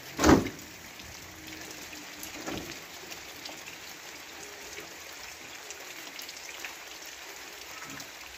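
Steady rain falling, with scattered drops ticking on hard surfaces. A single loud thump sounds about a third of a second in.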